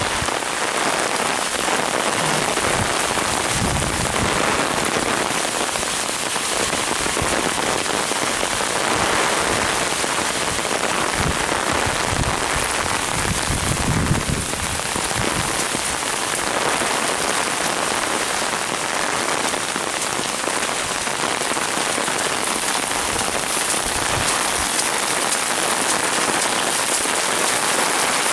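Heavy hurricane rain pouring down steadily while strong wind blows. A few low gusts rumble on the microphone, the strongest about fourteen seconds in.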